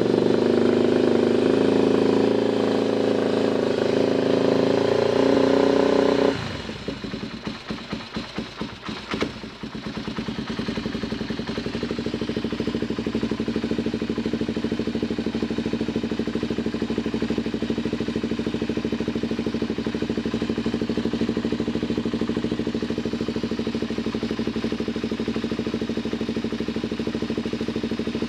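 Yamaha TT-R250's air-cooled single-cylinder four-stroke engine running at raised revs, then dropping off suddenly about six seconds in as the throttle is let go. It runs unevenly for a few seconds, with one sharp click near nine seconds, then settles into a steady idle.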